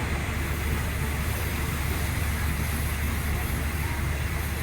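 Steady rumble and rush of a third-class passenger coach running along the track on a Thai rapid train, an even noise with a deep low drone and no distinct knocks.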